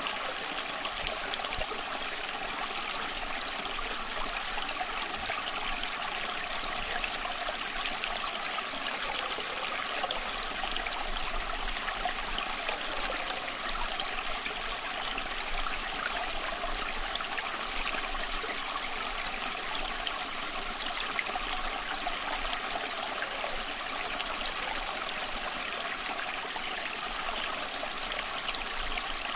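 Small stream flowing and trickling over stones, a steady splashing babble.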